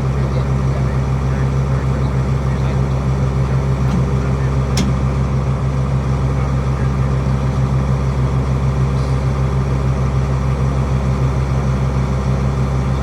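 Truck engine idling steadily with an even, rapid low pulse. A single sharp click comes about five seconds in.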